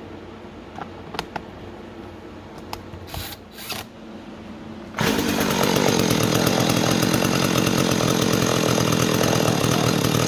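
McCulloch 3214 two-stroke chainsaw engine, carburettor freshly rebuilt: a few clicks and two short rasps, then about five seconds in the engine catches and runs loud and steady. The saw runs but still needs its carburettor tuned.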